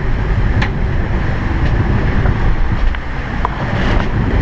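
Strong wind buffeting the microphone over rushing waves against a sailing catamaran in 26 to 30 knots of wind, with a few sharp clicks.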